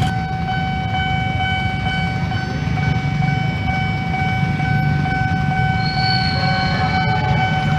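Train running with a steady low rumble, with a steady high-pitched tone held over it the whole time. More tones join near the end.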